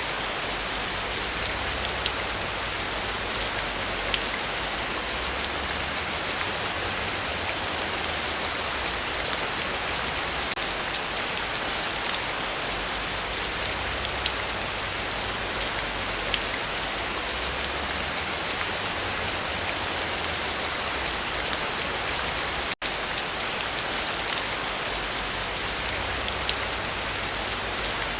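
Heavy rain falling steadily, with many individual drops ticking on surfaces over a constant wash. There is a brief dropout of the sound about three-quarters of the way through.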